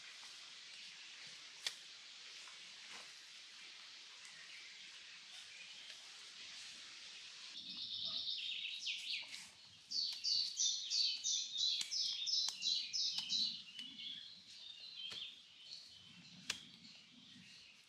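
Forest bird singing: a burst of chirps about eight seconds in, then a fast run of high repeated notes for about three seconds, over a steady high hiss. A few sharp clicks or snaps.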